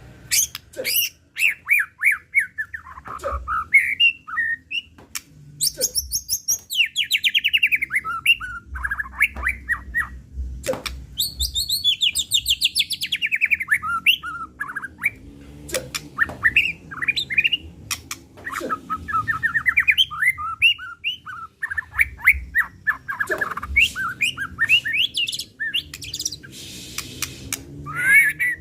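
White-rumped shama (murai batu) singing an agitated full song: one varied phrase after another of very rapid trills and sweeping whistled glides, broken by sharp clicking notes, as the bird runs through its repertoire of mimicked calls.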